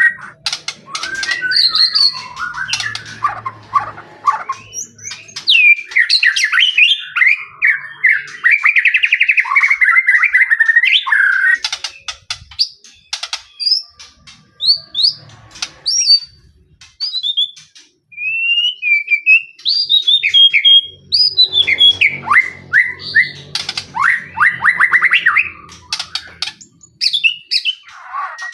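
White-rumped shama singing loud, varied song in top form (gacor): whistled phrases, fast trills and harsh buzzy notes. Through the middle it drops to short chips and clicks, then the full song picks up again.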